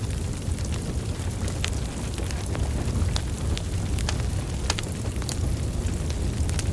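Wood fire burning, with a steady low rumble of flames and scattered sharp crackles and pops from the logs, a few each second.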